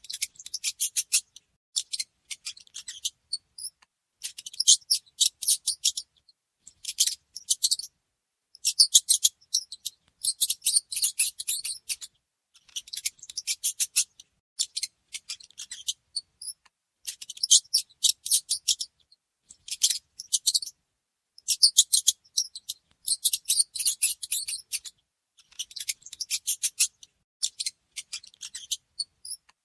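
Mice squeaking in rapid, high-pitched chattering bursts of a second or two each, with short silent gaps between.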